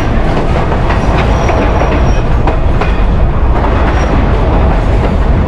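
Narrow-gauge railroad passenger car rolling along the track: a steady loud rumble and rush with repeated clicking and clattering from the wheels on the rails, and a few faint high squeals.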